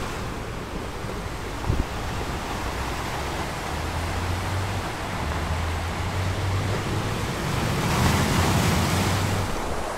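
Steady rushing outdoor noise of wind and sea surf, with a low rumble through most of it that swells slightly near the end. A brief low bump about two seconds in.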